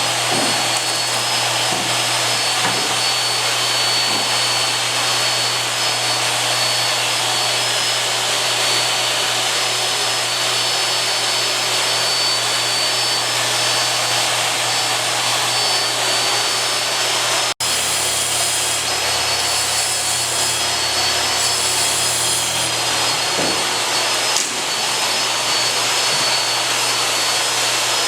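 A motor-driven machine running steadily with a loud, even whoosh like a vacuum cleaner or blower. The sound drops out for an instant about two-thirds of the way through, then carries on.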